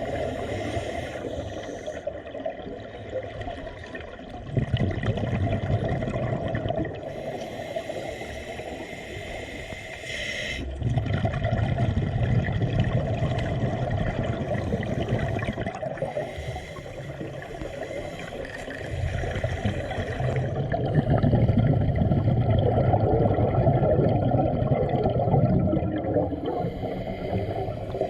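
Water gurgling and bubbling, swelling and fading in long surges every few seconds.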